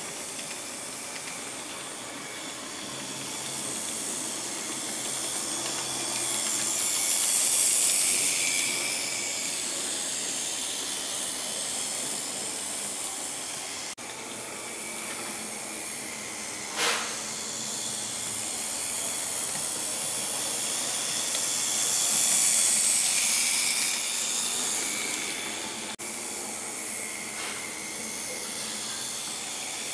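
Bemo model train running on the layout's track: a steady high hiss of small wheels and motor that swells twice as the train passes close, with a single click about halfway through.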